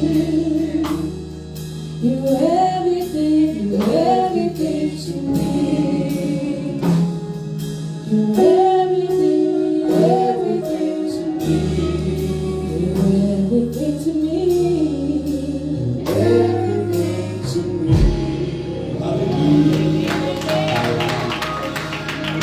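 Gospel singing with a choir over a band, held bass notes and a steady beat.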